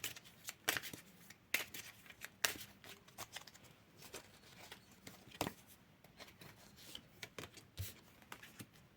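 Tarot cards being handled: scattered soft card clicks and rustles, several short sharp ones standing out, as cards are shuffled and laid down.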